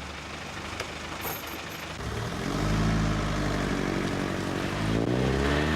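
Motor vehicle engine running, growing louder about halfway through and rising in pitch near the end as it revs up.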